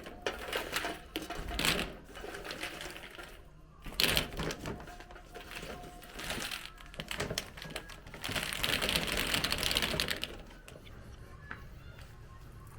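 Irregular rapid clicks and knocks throughout. A hissing noise joins in about eight seconds in and lasts about two seconds.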